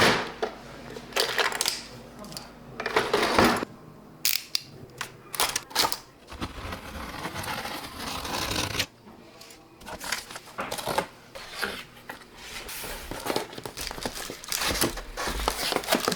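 Close handling of a package: an irregular run of clicks, knocks, scrapes and rustles as it is handled and opened.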